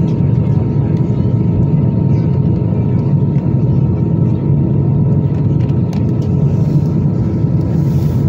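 Steady low rumble of an Airbus A320's engines and airframe, heard from inside the passenger cabin. A faint steady hum sits above it, and a few light clicks come near the middle.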